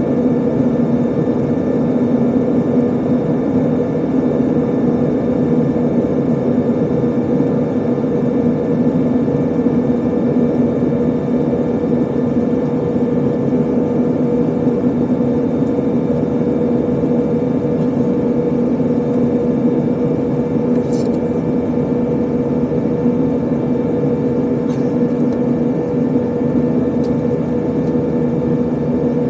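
Steady engine and airflow noise inside the cabin of an Airbus A320 airliner in flight, with several constant hums under it. A couple of faint clicks come a few seconds apart about two-thirds of the way through.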